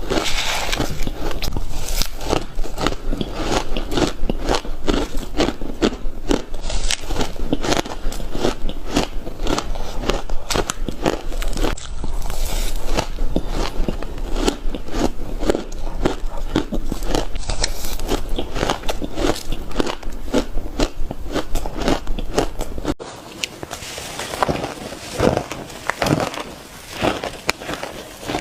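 Shaved ice being bitten and crunched close to the microphone, many crisp crunches a second. About 23 seconds in it cuts abruptly, and after that the crunching is sparser and quieter.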